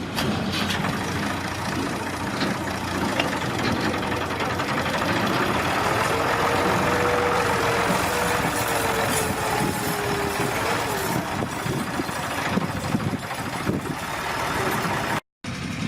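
Tractor engine running hard and steadily, with a whining tone that rises and eases a little through the middle.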